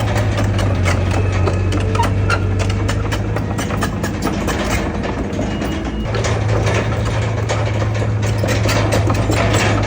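Heavy diesel engine of an earthmoving machine running steadily, with frequent rapid clicks and knocks throughout; the engine's low drone eases off for a few seconds and comes back strongly about six seconds in.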